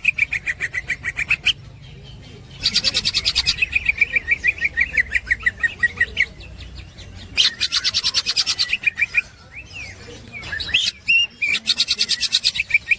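Green leafbird (cucak hijau) in 'ngekek' song: four bouts of fast, evenly repeated sharp chattering notes, about eight a second, each bout lasting one to three and a half seconds with short pauses between.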